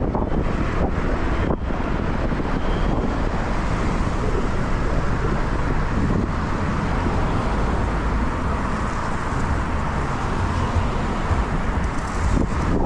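Steady rushing wind on the microphone of a moving bicycle rider's camera, mixed with road and traffic noise.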